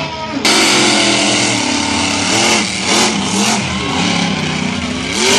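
Monster truck engine revving hard, jumping suddenly to full loudness about half a second in, its pitch rising and falling with the throttle.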